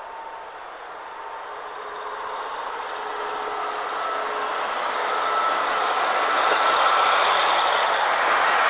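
Long diesel express train approaching and starting to pass close by. Its running noise grows steadily louder throughout.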